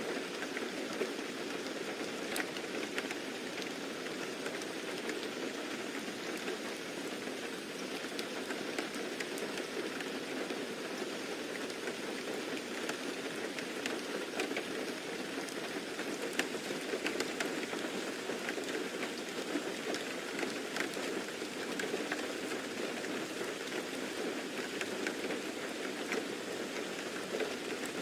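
Steady rain falling, with a constant hiss and many small drops pattering on a surface.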